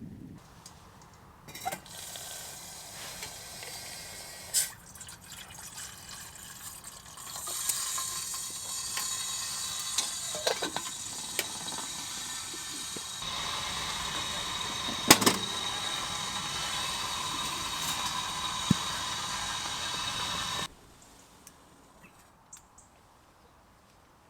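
Water pouring into a kettle, a steady rush that grows louder partway through and takes on a ringing tone as the kettle fills, then stops suddenly. A few small knocks come during the pour.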